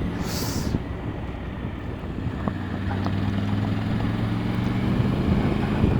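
Triumph Tiger 900 GT Pro's three-cylinder engine running at a steady cruise, under wind noise on the microphone. The engine note comes through more clearly from about halfway and grows slightly louder. A short hiss is heard at the very start.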